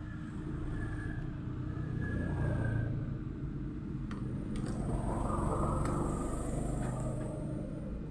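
Low rumble of road traffic, with a swell that rises and fades about five to seven seconds in, and a few light clicks.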